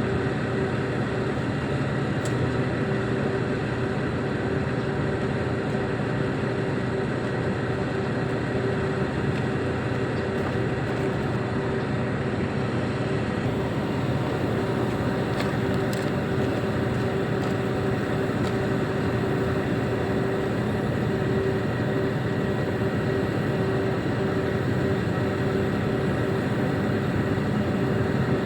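Reach stacker's diesel engine running steadily, with a constant whine over the engine noise.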